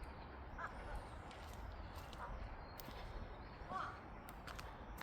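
A crow cawing in short single calls, three times, the last the loudest, over a steady low outdoor rumble.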